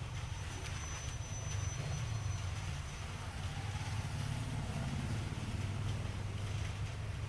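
Diesel locomotive engine running steadily with a low rumble.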